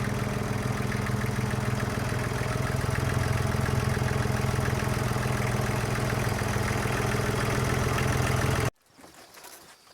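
Yanmar FX20D compact tractor's diesel engine idling steadily, cutting off abruptly about nine seconds in; faint light taps and clicks follow.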